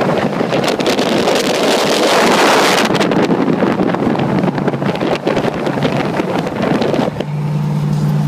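Loud rushing of wind and road noise on the microphone from a moving truck. About 7 seconds in it cuts off suddenly, leaving a steady low engine hum.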